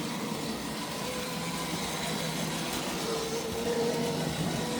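Tri-ang model railway locomotive running on the track: a steady whirr of its small electric motor and the wheels, with a faint whine that grows a little louder about three seconds in.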